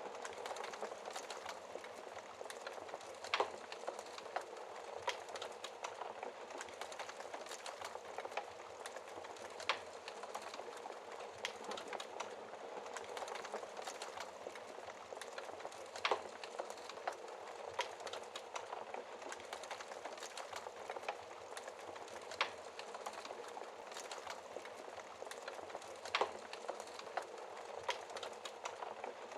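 Wood fire crackling: a steady hiss of burning logs with frequent small crackles and five louder pops spread through, roughly every six seconds.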